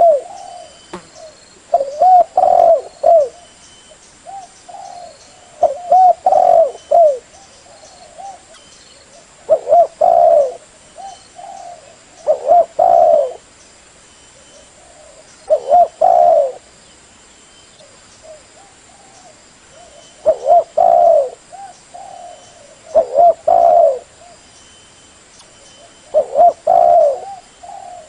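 Spotted dove (terkukur) cooing: a short phrase of several low, rounded coos, repeated about every three seconds, nine times. This is the call played as a lure to draw in spotted doves.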